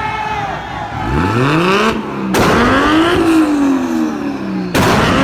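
Toyota Supra MK4's straight-six engine revving hard, its note climbing, then climbing again and falling away. Two sharp bangs cut through it, one midway and one near the end.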